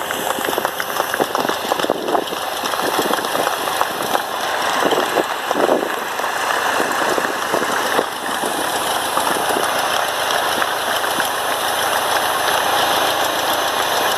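Cessna 150's engine running steadily, heard as a loud, even rushing noise.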